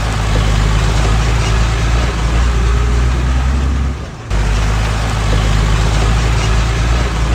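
Heavy diesel engine of earthmoving machinery running steadily, with a deep low hum; the sound briefly drops out about four seconds in, then resumes unchanged.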